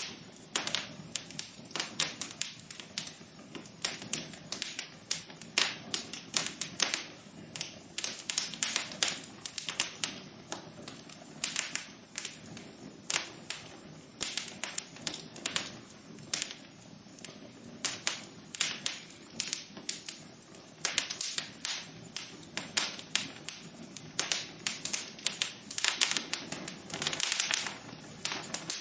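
Wood fire burning in a fireplace, crackling steadily: irregular sharp pops and snaps, several a second, over a soft low rush of flame.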